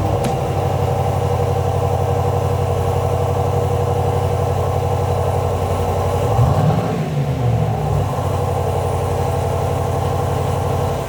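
Cadillac Escalade V8 idling through a PID variable-valve exhaust, with one short rev about six and a half seconds in that rises and falls back to idle.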